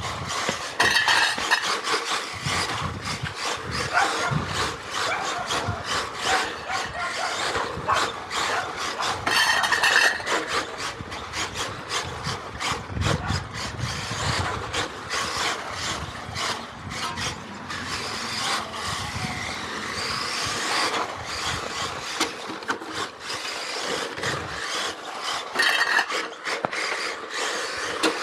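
Electric 1/10-scale Xray XB4 radio-controlled rally car driven hard on pavement: tyres scrubbing and sliding on the asphalt with a rasping sound, and bursts of motor whine on acceleration about a second in, near the middle and near the end.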